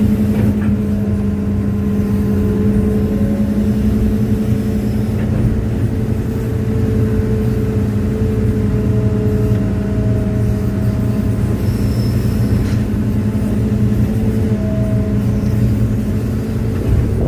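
Excavator's diesel engine running steadily, with faint thin whines that come and go over the engine's hum.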